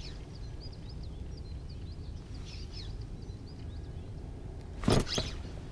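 Small birds chirping repeatedly in quick short calls over a steady low rumble of ambient noise, with two sharp clicks about five seconds in.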